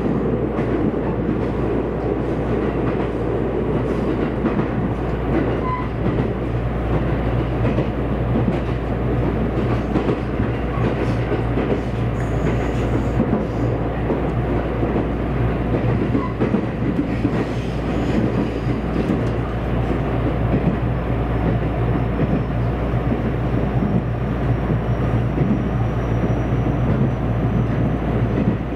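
Running noise inside a JR West 227 series electric train's motor car: a steady rumble of wheels on rail with a low hum. A faint high tone creeps up in pitch during the last third.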